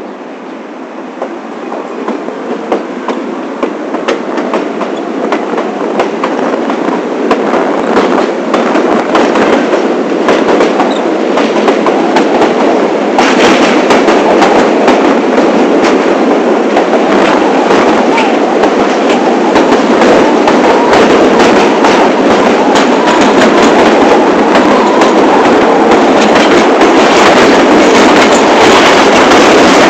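New York City subway train running on the rails, growing louder over the first half as it gathers speed, then holding steady, with a constant rattle and many clicks of wheels over rail joints.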